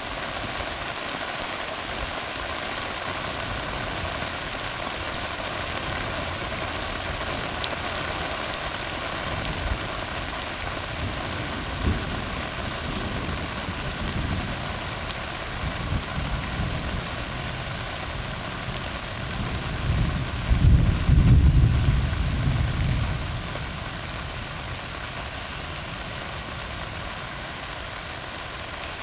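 Steady rain falling on a tar road. A low roll of thunder builds from about ten seconds in, is loudest a little after twenty seconds, then fades.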